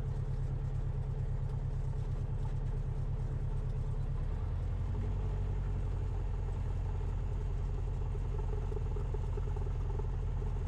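Cessna 172RG's four-cylinder Lycoming engine and propeller running steadily at low power, a low even drone whose note shifts slightly about four or five seconds in.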